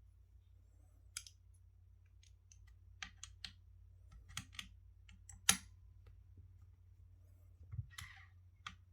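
Irregular sharp clicks and light taps of items being handled during an unboxing. The loudest click comes about five and a half seconds in, with a brief rustle near the end, over a steady low hum.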